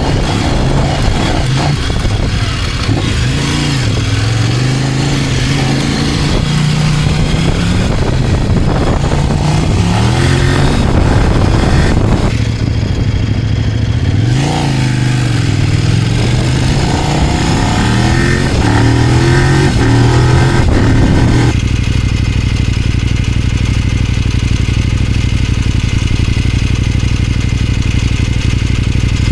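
Kove 800X Pro motorcycle engine pulling at modest revs on a gentle break-in ride, its note repeatedly rising and dropping back as the rider works through the gears. For the last several seconds it holds one steady, even note.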